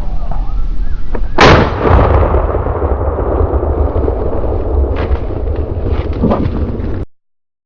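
A single gunshot about a second and a half in, ringing out after the blast, followed by a steady low rumble and a few light clicks. The sound cuts off suddenly about seven seconds in.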